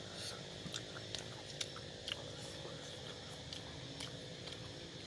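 A person chewing soft, ripe jackfruit, with small wet mouth clicks scattered through.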